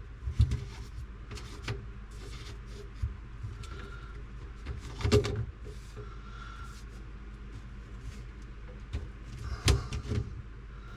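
Scattered knocks and clatters of plastic sink drain tubing being loosened and pulled off under a kitchen sink cabinet, over a steady low hum.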